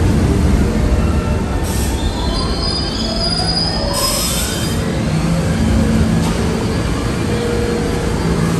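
New York City subway train running past with a steady rumble of wheels on rail. High wheel squeal sets in about two seconds in and lasts a couple of seconds, while a rising whine climbs in pitch around the middle.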